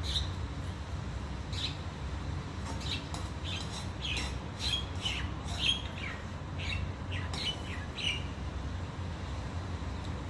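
Birds chirping: a run of short, high calls, some sliding down in pitch, most of them in the first eight seconds, over a steady low hum.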